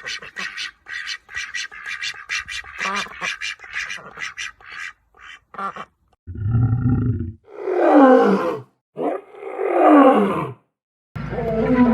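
Animal calls: a fast run of short repeated calls for about five seconds, then two loud roars falling in pitch, about two seconds apart.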